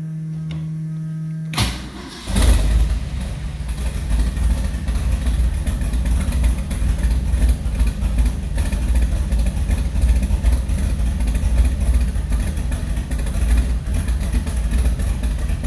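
An electric fuel pump hums steadily, then the car's engine cranks briefly on the push-button starter and catches about two seconds in with a short rev. It then settles into a steady idle.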